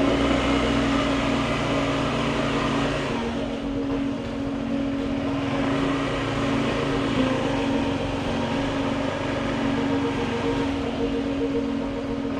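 Honda PCX scooter's single-cylinder engine running at a steady cruise, a constant hum under wind and road noise.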